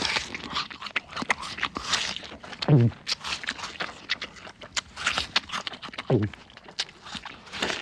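Pigeon pecking at the response keys of an operant chamber: rapid, irregular clicks and taps. Two short falling tones come about three and a half seconds apart.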